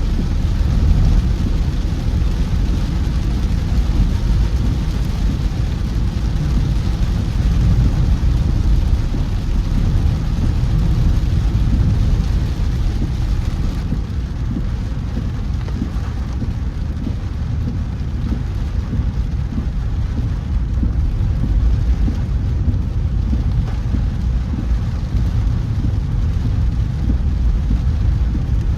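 A car driving through heavy rain: a steady low rumble of road and engine noise with the hiss of rain over it.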